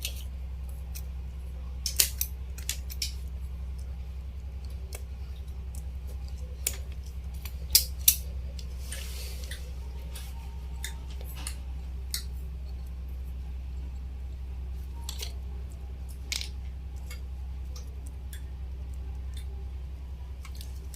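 Scattered sharp clicks and taps of small hand tools and battery-pack parts being handled during assembly, with a short rustle about nine seconds in, over a steady low electrical hum.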